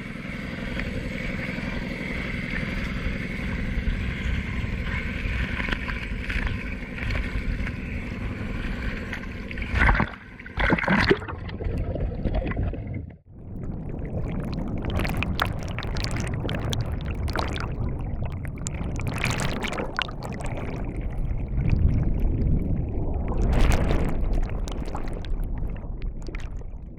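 A motor running steadily with water noise. About halfway through, the sound breaks off and gives way to a rougher, noisier rumble.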